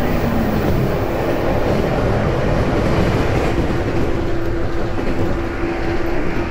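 415 series AC/DC electric multiple unit running, heard from inside the car: a steady rumble of wheels and running gear with a constant hum that grows stronger about halfway through.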